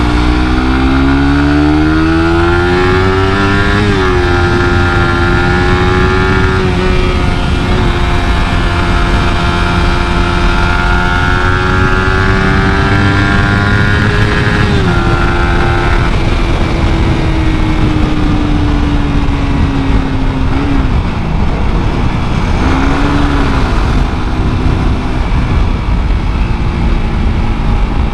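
Suzuki GSX-R150's single-cylinder engine through its stock exhaust, ridden under acceleration: the engine note rises for about four seconds, drops at a gear shift, holds steady, shifts again about halfway, then falls away. Two short blips of the throttle come near the end, and a steady rushing noise takes over.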